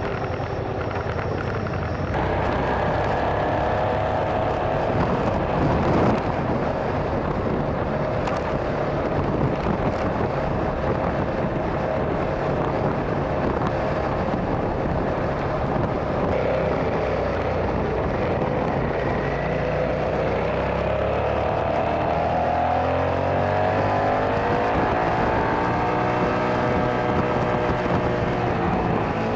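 Motorcycle engine running under way with steady wind rush. The engine's pitch rises and falls as the revs change, most clearly in the second half, and there is a brief louder swell about six seconds in.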